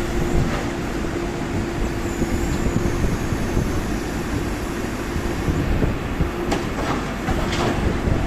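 Road-works machinery running with a steady rumbling drone and a constant hum, with two sharp knocks about a second apart near the end.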